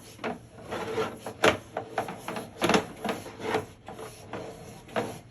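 Sewer inspection camera's push cable and reel being worked by hand: irregular scraping and rubbing with sharper knocks, the loudest about a second and a half in and again near the middle.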